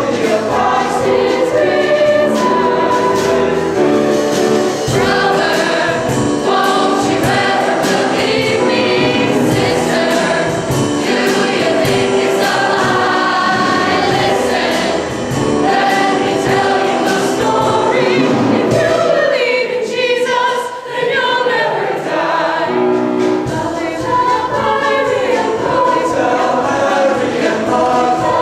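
A choir singing in parts, the voices briefly dropping away about twenty seconds in before coming back in.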